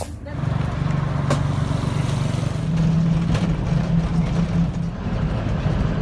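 A motor vehicle's engine running steadily, a low, even drone with a slight pulse.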